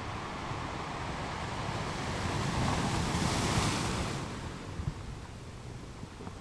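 Ocean waves on a shore: a wave swells about two seconds in, breaks with a bright rush of surf around the middle, then washes back and fades.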